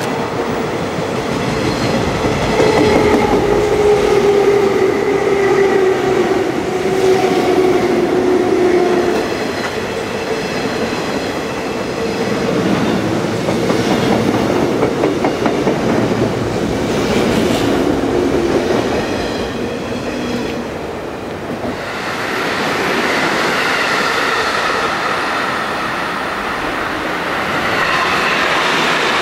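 583 series electric train running past: wheels rumbling and clattering over rail joints, with a tone that slowly falls in pitch as it goes by. About three-quarters of the way through it gives way to another electric train approaching, with a steadier, higher whine.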